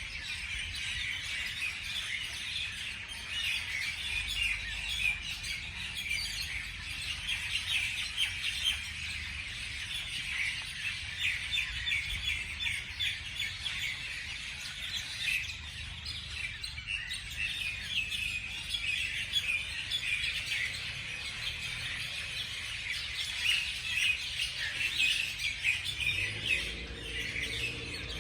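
Many small birds chirping and calling at once, a dense continuous chorus of short high chirps, with a low rumble underneath.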